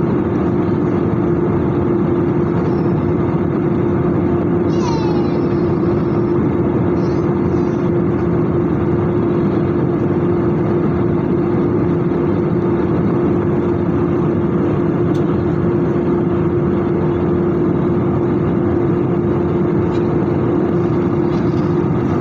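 Airbus A320 jet engines and airflow heard as a steady, unchanging roar with a constant hum, the way an airliner sounds from inside while running.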